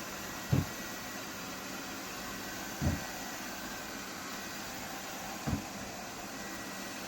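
Robot vacuum running with a steady whirring hiss and a faint thin whine. Three short, dull thumps come about two and a half seconds apart.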